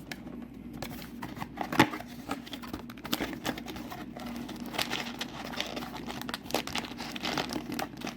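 Crinkling and tearing of packaging as a Disney Lorcana booster display box is opened by its tear tab: irregular crackles throughout, with one sharp snap a little under two seconds in.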